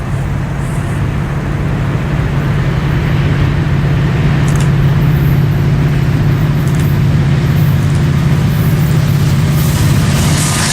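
Diesel locomotive engine running with a steady low drone that grows slightly louder as the train comes on.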